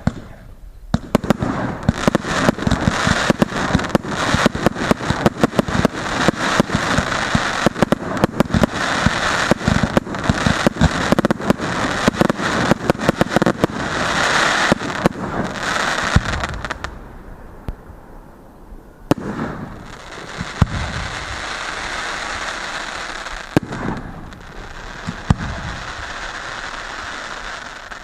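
Fireworks going off: a dense, rapid barrage of bangs for about the first seventeen seconds, then after a brief lull a steadier crackling hiss with a few single bangs.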